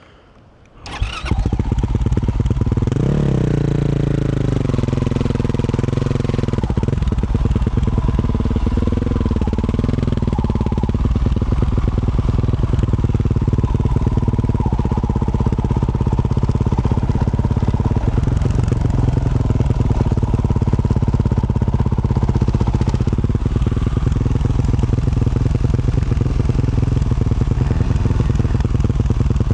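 2024 Yamaha YZ450F single-cylinder four-stroke dirt bike engine with a Yoshimura RS-12 exhaust, starting up about a second in. It revs up briefly, then runs steadily under way.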